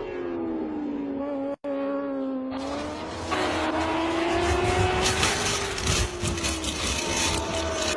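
MotoGP race bikes' engines running at high revs, the engine note sliding up and down in pitch. After a brief cut about a second and a half in, a loud rushing noise joins from about three seconds on.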